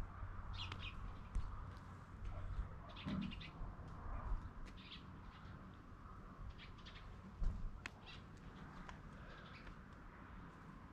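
Birds chirping in short, scattered calls throughout, over a faint, uneven low rumble.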